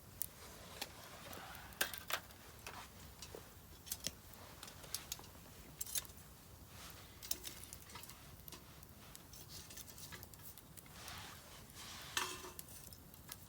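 Split firewood burning in a Solo Stove Campfire fire pit, crackling with irregular sharp pops and snaps.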